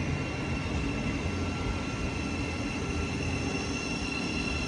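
Electric multiple unit standing at the station platform, running with a steady hum and a constant high-pitched tone from its onboard equipment.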